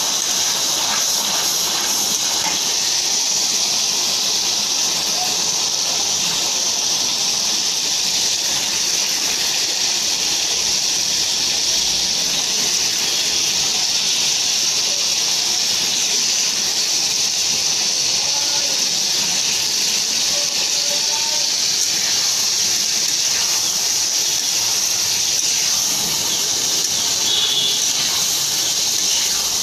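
Spice paste sizzling steadily in hot oil in a karai as pieces of boiled liver fry in it.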